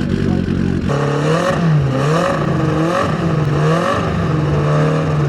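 Car engine idling, then revved and let fall several times, its pitch dipping and rising about once a second.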